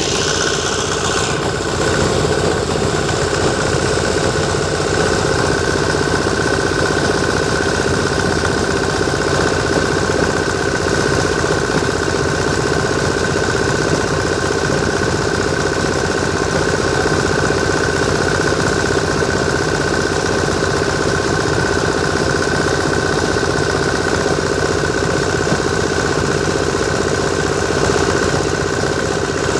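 Sonalika tractor's diesel engine running at a steady speed, driving a borewell water pump through its power take-off. The engine note carries a constant whine.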